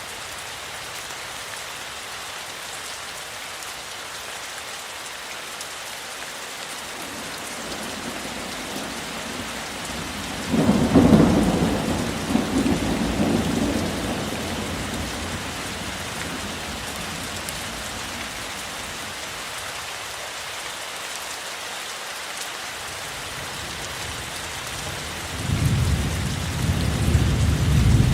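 Steady rain falling, with thunder: a loud clap starts suddenly about ten seconds in and rumbles off over a few seconds, and a second low rumble of thunder starts near the end.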